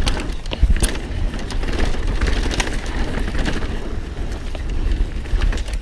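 Mountain bike riding over rough, rocky trail: tyres rumbling over rock and dirt with scattered sharp clicks and knocks from the bike rattling, under steady wind rumble on the camera microphone.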